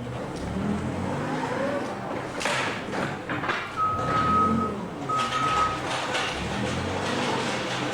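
An industrial baler and its conveyor running: a steady mechanical rumble with sharp metallic clanks and rattles. Two long, steady electronic beeps come about four and five seconds in, like a reversing alarm.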